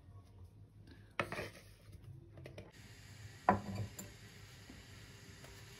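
Dishes and cutlery knocking and clinking in a kitchen: a knock about a second in and a louder one about three and a half seconds in, each with a short ring, between quieter handling.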